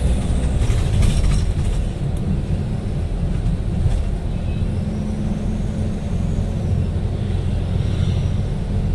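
City bus under way, heard from inside: a steady low rumble of engine and road noise, with a few faint clicks and rattles.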